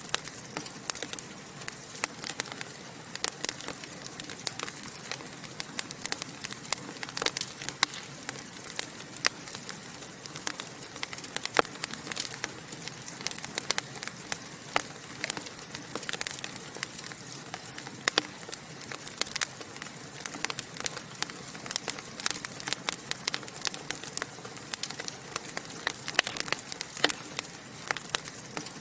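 Wood fire in a fireplace crackling, with many irregular sharp pops and snaps over a steady hiss.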